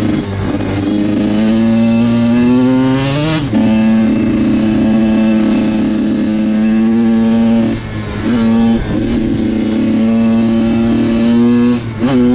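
Dirt bike engine under hard throttle. The pitch climbs for about three seconds, drops sharply at a gear change, then holds high and steady. It dips briefly at a let-off around two-thirds of the way through and ends in a few quick throttle blips.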